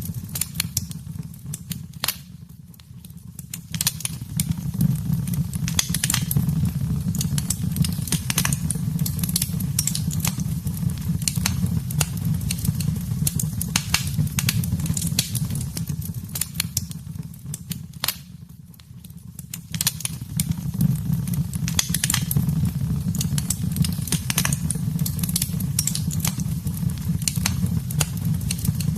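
Wood fire crackling in a fireplace: a steady low rumble of flames with frequent sharp pops and snaps. Twice it quiets for a second or two before the crackling builds back.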